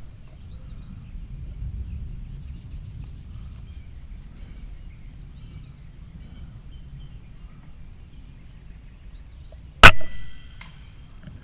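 A single shot from an FX Impact M4 PCP air rifle, a sharp crack nearly ten seconds in with a brief ringing after it, and a faint knock about three quarters of a second later from the pellet striking the steel target downrange. Before the shot, only a low steady outdoor hiss of light rain with faint bird chirps.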